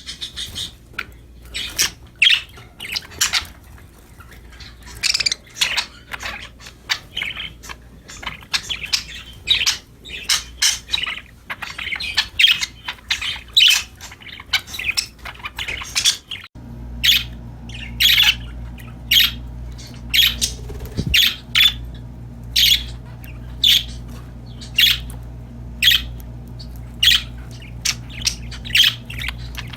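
Pet budgerigars chirping and squawking in many short, high calls. About halfway through a steady low hum sets in underneath, and the calls then come at a more even pace, roughly one a second.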